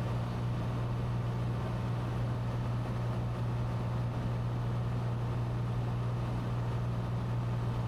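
Cessna 182T's six-cylinder Lycoming IO-540 engine and propeller heard as a steady low drone from inside the cockpit in cruise flight.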